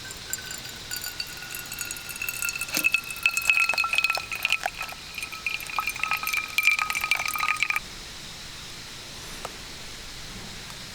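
Liquid poured into a ringing cup, with many small clinks, stopping suddenly about eight seconds in.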